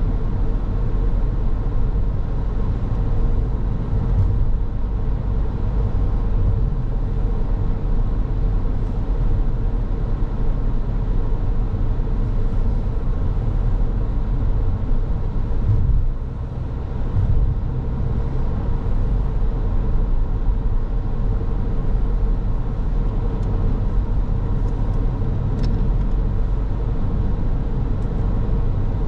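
A car driving on the road: steady engine and tyre rumble with a faint constant hum. It eases briefly about sixteen seconds in, then picks up again.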